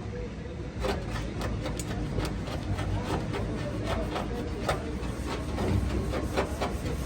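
A quick, irregular series of knocks and taps, a few a second, over a steady low hum.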